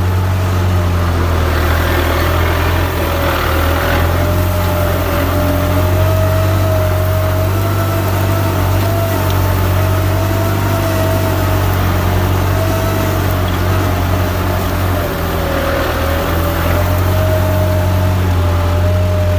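Kubota tractor's diesel engine running steadily under load while plowing, a deep constant drone with a thin whine above it that wavers slightly in pitch.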